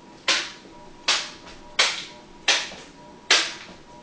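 A small pouch of fruit snacks slapped upward by hand five times in a steady rhythm, about one smack every three-quarters of a second.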